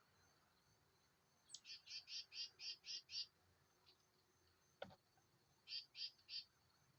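A bird calling: a quick series of about seven high, evenly spaced notes, then three more near the end. A single sharp click falls between the two series.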